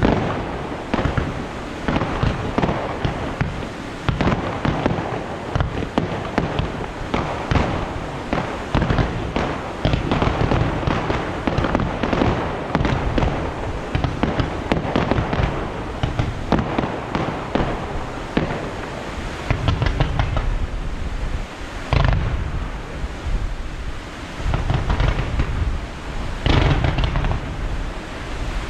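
Fireworks display going off: a dense run of bursts and crackling, with heavier, deeper booms packed together in the last third.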